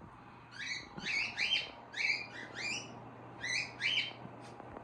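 Pet parrots chirping: short, high chirps in quick pairs and threes, about one group a second, over a low steady hum.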